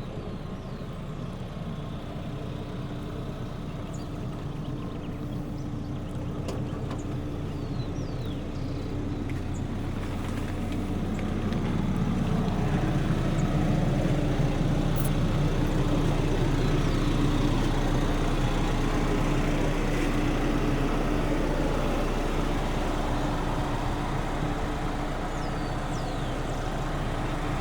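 A 1994 Mitsubishi Montero 4x4 running as it drives along a dirt track, with a steady engine tone. It gets louder about halfway through.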